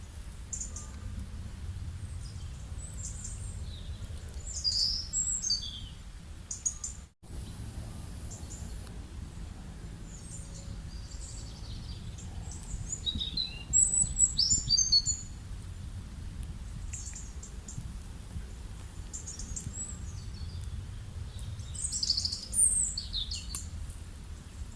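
Small birds chirping in scattered short calls, with a loud quick run of chirps about halfway through, over a steady low background rumble. The sound drops out for an instant about seven seconds in.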